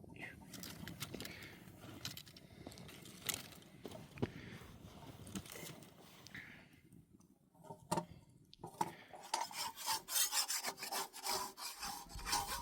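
Rubbing and scraping, turning into a fast run of rapid scraping strokes over the last few seconds.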